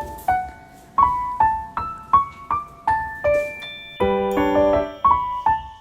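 Background piano music: a gentle melody of single notes, each struck and fading, with a fuller chord about four seconds in.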